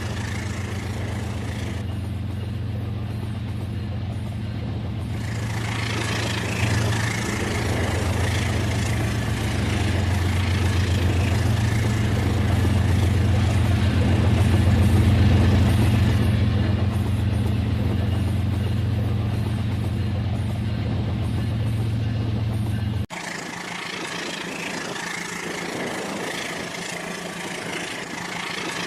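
Battery-powered toy train running steadily with a low motor hum. The hum grows a little louder toward the middle, then cuts off suddenly near the end, leaving a lighter running noise.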